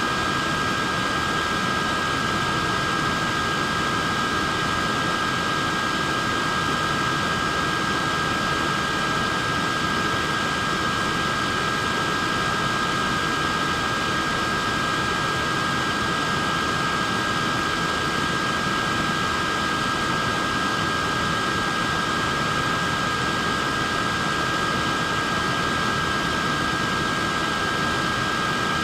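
Wearable neck fan running steadily: a constant rush of air with a thin, steady whine from its motor and blades.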